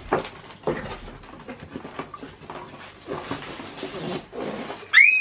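Cardboard box and packaging being pulled open and lifted out, with scattered crackles and rustles. Near the end there is a short, high, rising squeal.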